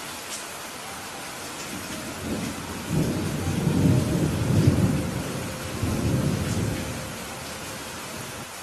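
Steady heavy rain with a rolling thunder rumble that builds about two seconds in, peaks over the next few seconds with a second swell, and dies away near the end.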